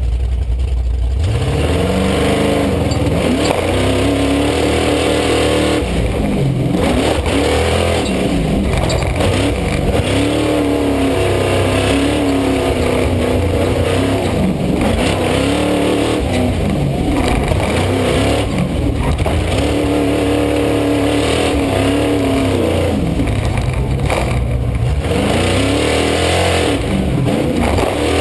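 Monster truck engine revving hard and easing off over and over, its pitch climbing and dropping every couple of seconds as the throttle is worked.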